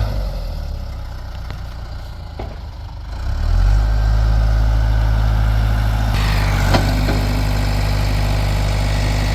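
Backhoe engine running at low speed, then throttling up about three and a half seconds in and holding a steady higher speed as the machine works to break a stump loose, with a sharp knock about two-thirds of the way through.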